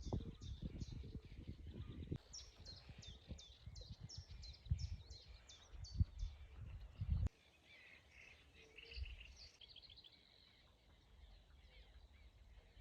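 A songbird sings a fast run of repeated high, falling chirps, about three a second, with softer bird calls after it. Under the song is a low rumbling noise that stops abruptly about seven seconds in.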